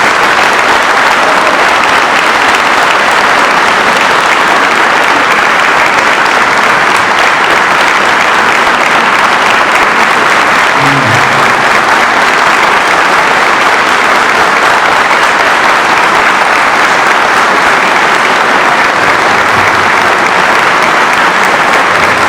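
Sustained applause from a large hall audience, steady and loud throughout.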